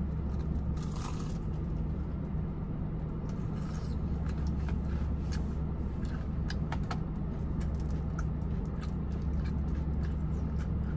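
Close-up chewing of a potato-crusted mozzarella corn dog: scattered crunches and sharp mouth clicks over a steady low hum from the car.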